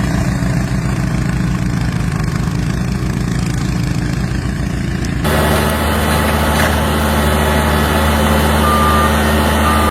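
A large vehicle's engine running steadily. About five seconds in the sound cuts to a louder engine hum, and near the end there are two short high beeps.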